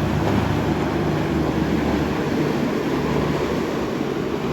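Boat motor droning steadily at the inlet, under wind on the microphone and the wash of water.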